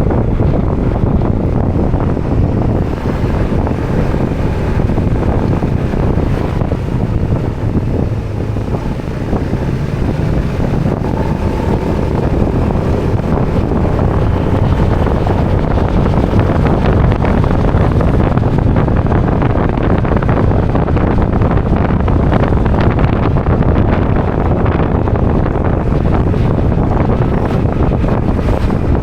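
Motorbike engine running on the move, mostly covered by wind buffeting the microphone.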